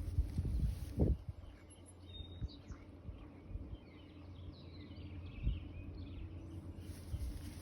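Small birds chirping in the background in a quick run of short calls, with a few low thuds near the start and one more about five seconds in.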